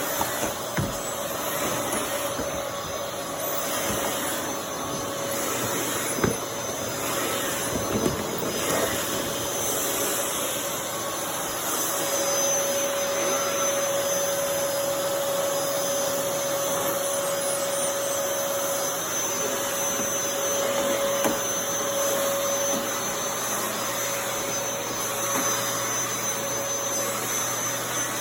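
Dyson DC23 Animal canister vacuum cleaner running steadily while vacuuming, with a steady whine that grows stronger about halfway through and a few sharp knocks.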